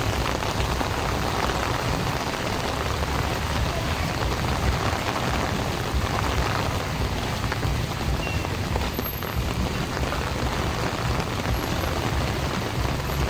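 Heavy storm rain pouring down steadily as a dense, even hiss, with a low rumble underneath.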